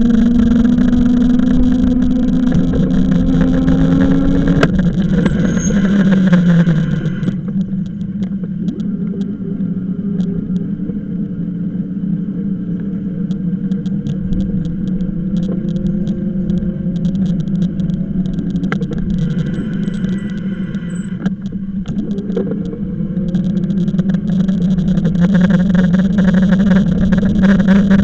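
E-bike under way: a steady motor whine over a rumble of wind and road noise. The whine drops in pitch about six seconds in, and the hiss grows lighter for a while before building again near the end.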